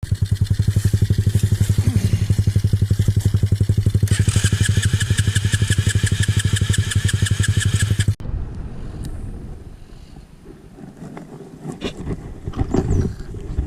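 Small motorcycle engine idling close by with a rapid, even putter; about halfway through, a high ticking and whine join in. The engine sound cuts off abruptly about eight seconds in, leaving quieter scattered knocks and clatter.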